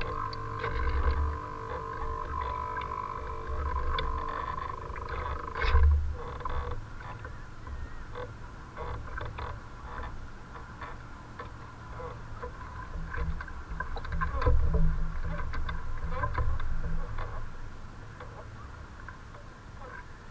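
Wind buffeting the microphone in gusts, a low uneven rumble. A steady high whine sounds over it for the first six seconds or so and stops abruptly, and scattered clicks and knocks follow.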